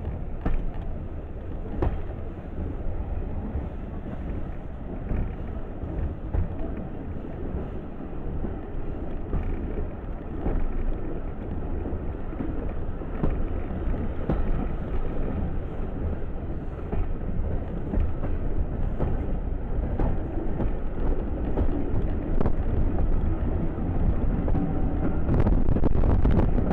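Steady low rumble of a moving train, with wind buffeting the microphone and a few faint clicks, building slightly toward the end.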